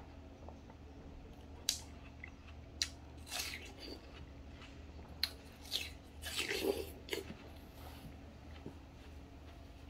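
Watermelon being bitten and chewed: a few wet, crunchy bites with sharp clicks, loudest a little past the middle, over a steady low hum.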